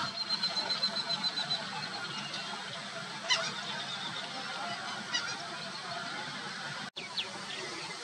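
Birds calling: a fast series of high, rapid notes in the first second and a half, then single short calls about three and five seconds in, over a steady outdoor background.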